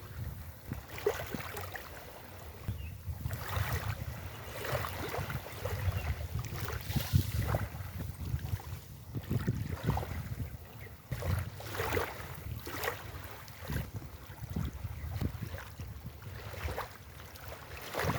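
Sea waves breaking and washing on a beach, in repeated surges of hiss and splash, with wind buffeting the microphone in a steady low rumble.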